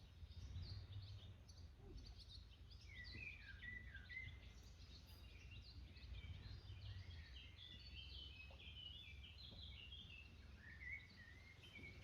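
Faint birdsong: a continuous run of quick chirps and warbled phrases, some notes falling in pitch, over a low steady rumble.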